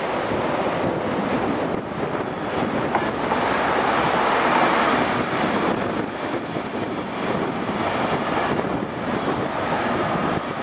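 Express passenger train running along a platform close by: a steady rushing rumble of wheels and air, swelling a little a few seconds in, with wind buffeting the microphone.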